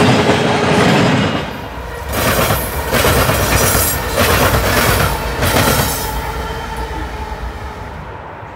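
Freight train passing close by: tank car wheels rolling over the rails with a faint squeal. Then a Norfolk Southern diesel locomotive rolls past with a low rumble and clacks over the rail joints about once a second, fading away near the end.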